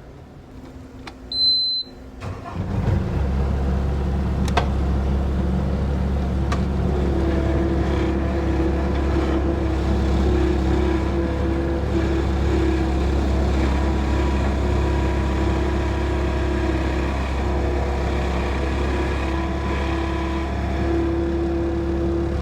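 A short high beep, then a motor starts up about two seconds in and runs steadily with a low hum.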